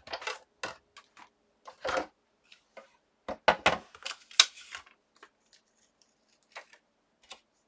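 Cut paper being worked out of a thin metal cutting die by hand: irregular clicks, taps and paper rustles, busiest about three and a half to four and a half seconds in.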